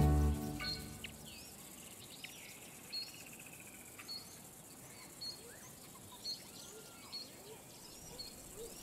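Background music fading out, then faint outdoor ambience with birds chirping: short, repeated calls about once a second and a longer trill a couple of seconds in.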